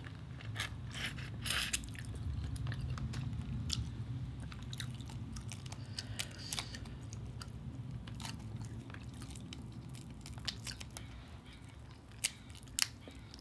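Close-up chewing and mouth sounds of someone eating cooked shrimp: many short wet clicks and smacks, with the light crackle of shrimp shells being peeled by hand.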